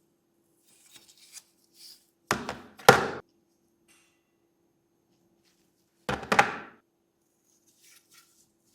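Handling noise on a workbench: a few light taps, then two louder clattering knocks, one about two and a half seconds in and one about six seconds in, with faint ticks near the end.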